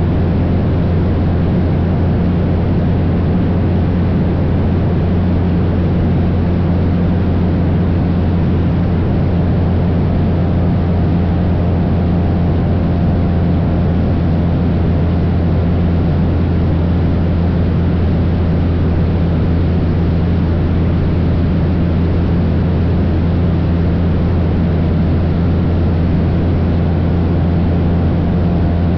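Cessna 172's piston engine and propeller droning steadily in flight, with an even, unchanging pitch.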